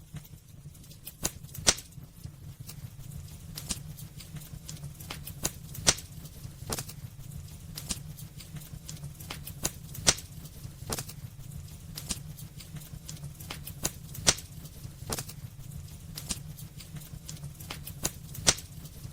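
Wood fire crackling and popping: irregular sharp pops, some much louder than others, over a steady low rumble of the burning fire.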